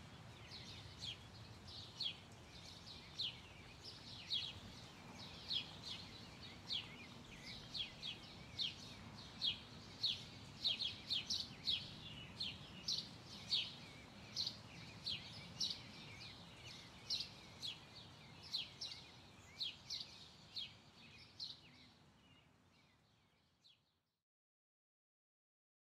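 A bird chirping over and over, short quick downward chirps at about two a second, over a faint low hum; the chirping fades out near the end.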